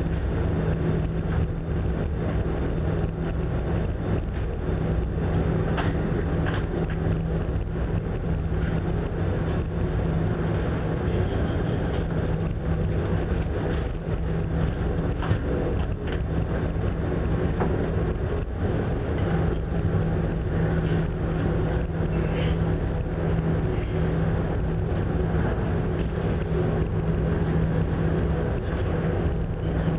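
Large passenger ferry's engines giving a steady low hum under a continuous rush of wind and sea, in heavy typhoon swell.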